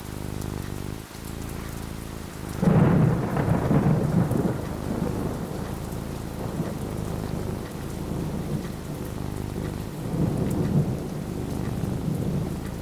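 Steady rain falling, with a clap of thunder that breaks in suddenly about three seconds in and rumbles low for a couple of seconds, then a softer rumble of thunder near the end.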